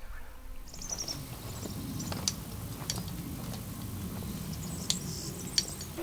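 Birds calling: a short, rapid, high trill about a second in, then a few sharp high chirps, over a faint low rumble.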